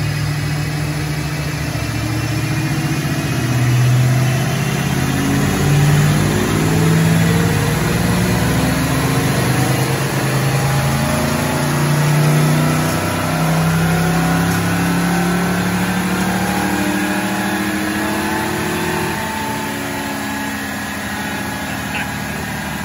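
1994 Ford Mustang GT's 5.0-litre V8 making a chassis-dyno run in fourth gear: the revs rise and fall a few times, then climb slowly in one long pull, and ease off near the end.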